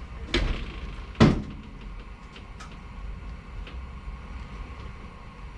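Two clunks about a second apart, the second louder, then a few faint light clicks: parts being handled and fitted while working on a pickup's wheels.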